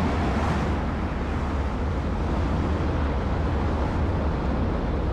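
Tornado wind: a loud, steady rush of wind with a deep, continuous rumble underneath.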